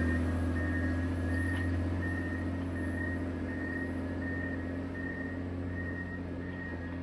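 Motor grader's diesel engine running steadily while its reversing alarm beeps, about three beeps every two seconds. The whole sound slowly grows fainter.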